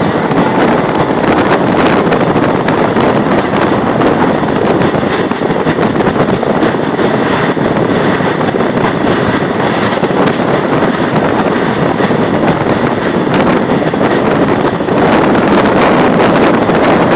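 Wind rushing over the microphone at the window of a moving train, mixed with the train's steady running noise; it grows a little louder near the end.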